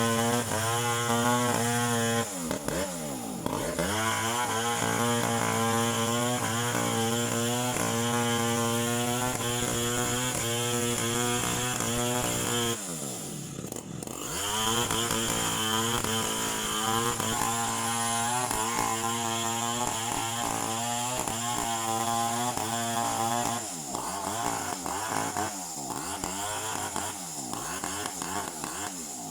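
Chainsaw running at high revs, its engine note dropping sharply and climbing back about 3 seconds in and again midway. It turns rougher and quieter near the end.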